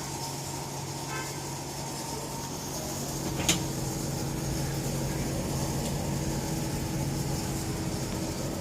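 Steady machine hum with a few constant tones, broken by one sharp click about three and a half seconds in.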